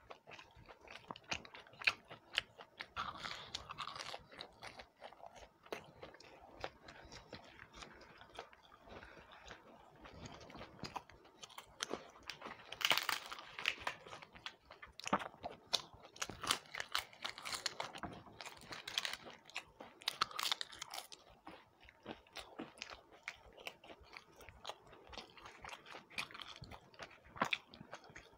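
Close-miked eating: chewing and crunching of fried snacks (pakoda, papad and kakra pitha), a continuous run of small mouth clicks and crunches, with louder crunchy bites through the middle stretch.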